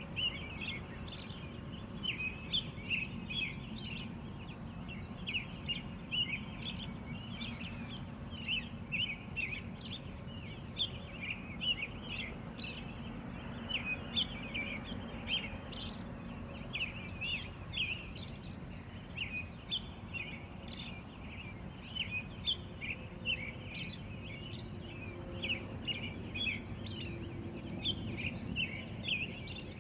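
Wild birds chirping densely and without pause in a dawn chorus, over a steady high-pitched trill and a low background hum.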